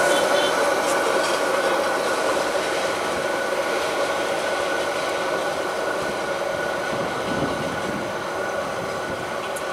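A diesel-hauled passenger train's coaches rolling away on the rails: steady wheel-and-rail noise with a few steady ringing tones on top, fading slowly as the train draws away.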